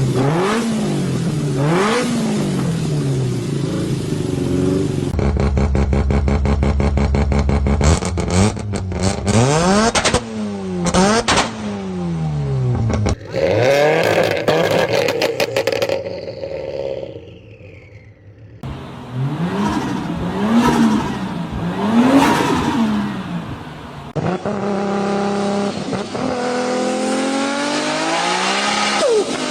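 A run of short spliced clips of racing and sports engines revving and shifting gears. The pitch climbs and drops again and again, with abrupt cuts from one engine to the next. Near the end an engine pulls up through several gears.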